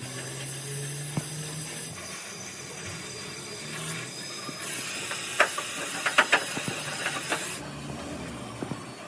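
A steady hiss that grows stronger for about three seconds in the middle, with a run of sharp clicks and knocks during the louder stretch.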